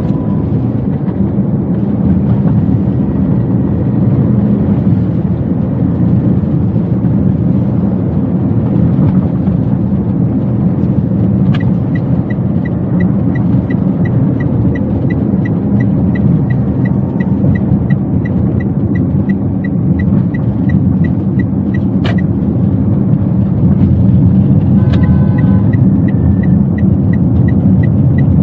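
Steady road and engine rumble inside a Toyota Wigo's cabin while driving. Partway through, an even ticking starts, typical of the turn-signal relay; it breaks off for a few seconds and then resumes.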